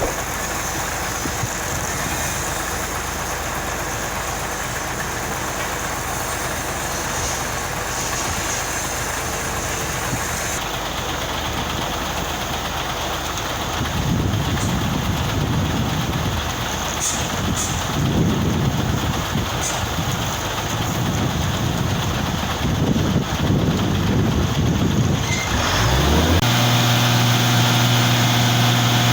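Concrete mixer truck's diesel engine running, with a heavier low rumble swelling in waves through the second half and a steady droning tone setting in near the end.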